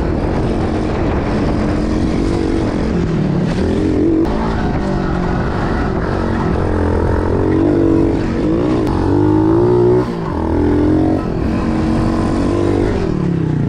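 Pit bike's single-cylinder engine revving up and down as the bike is ridden over a dirt track's jumps. The throttle shuts briefly about ten seconds in, then the engine picks up again.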